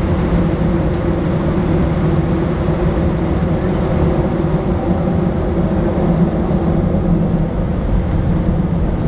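Airbus A319 airliner heard from inside the passenger cabin: a steady, loud low rumble of engines and airframe with a faint hum of steady tones, holding even with no rise or fall.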